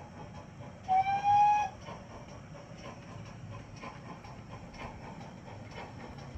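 An O gauge model locomotive's sound system gives one short whistle toot, a single slightly rising note about a second in. Around it, faint steady running noise with light irregular clicks comes from the model train on the track.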